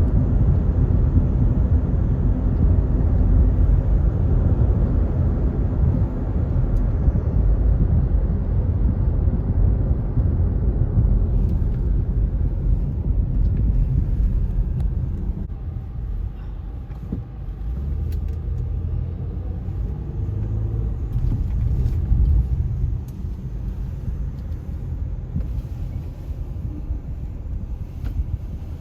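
CSX freight train rolling past: a steady low rumble that drops away and fades over the second half.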